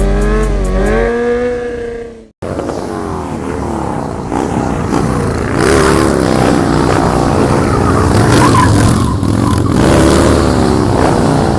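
Sport motorcycle engines revving up and down, with a sudden cut to silence about two seconds in before more revving.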